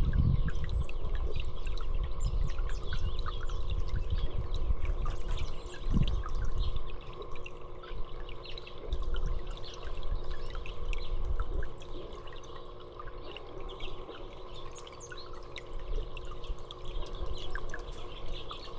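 Small birds chirping and twittering in short, scattered calls over a steady pouring, trickling water-like noise with a low rumble, which eases off about two-thirds of the way through.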